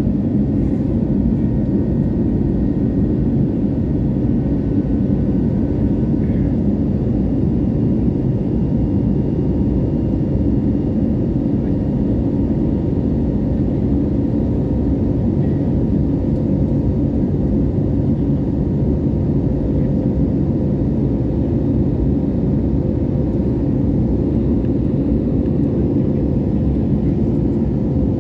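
Steady drone of an Airbus A320neo's engines and airflow heard inside the passenger cabin: a low, even noise with a faint steady hum above it.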